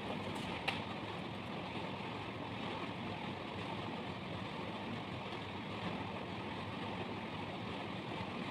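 Steady, even rushing background noise with a single sharp click about two-thirds of a second in.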